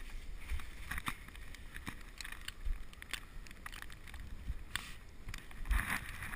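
Scattered light clicks and knocks from a wearable action camera and its gear being handled, over a low rumble of wind on the microphone.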